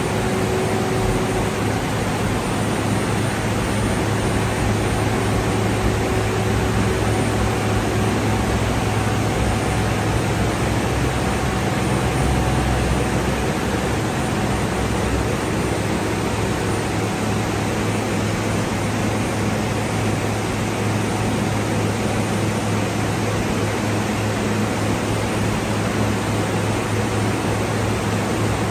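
Rock wool production line machinery running: a steady, loud noise over a low hum, with faint steady tones and no rhythm or knocks.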